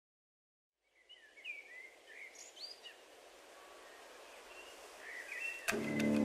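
Silence for about a second, then faint outdoor ambience with small birds chirping, slowly growing louder. Near the end, music with plucked strings comes in suddenly.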